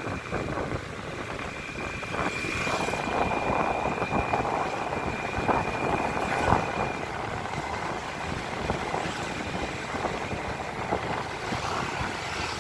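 Motorcycle engine running steadily while riding along the road, with a thin high whine that stops about halfway through.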